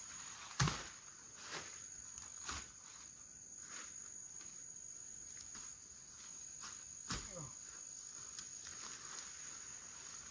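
Insects droning with one steady high-pitched tone, and a few short knocks about half a second in, two and a half seconds in and seven seconds in.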